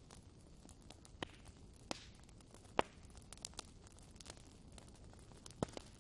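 Wood fire burning in a fireplace, with a soft steady hiss and irregular sharp crackles and pops, the loudest pops about a second, three seconds and near the end.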